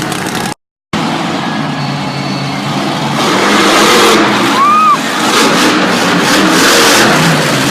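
Monster truck engine running loud amid dense arena noise, cut off briefly by a moment of dead silence about half a second in. A short rising-and-falling high tone sounds about five seconds in.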